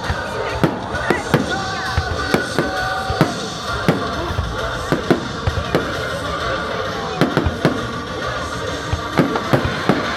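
Fireworks display: frequent, irregular bangs and pops from aerial shells, over music with a tune.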